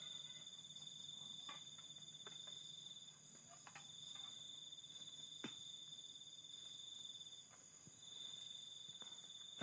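Crickets chirring in a steady high chorus, one trill pausing briefly a few times, with a few faint clicks.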